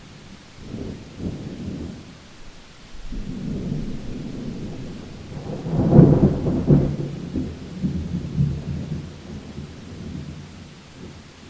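Thunder rolling over steady rain: a low rumble begins about a second in, swells to its loudest with a sharper crack about halfway through, then rumbles away near the end.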